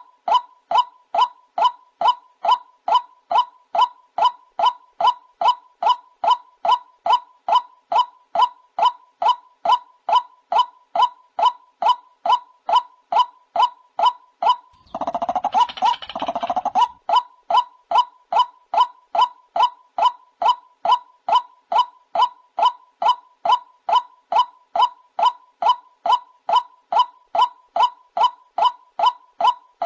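White-breasted waterhen repeating its monotonous 'kook' call, about two short upward-bending notes a second. About halfway through, a harsher, noisier call breaks in for about two seconds before the steady notes resume.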